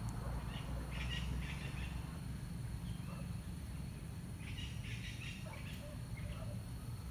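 Birds chirping in two short flurries, about a second in and again around five seconds in, over a steady low rumble of outdoor background noise.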